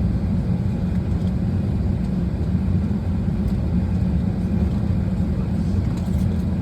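Steady low drone of an Airbus A320's cabin air system while the aircraft is parked at the gate, before engine start.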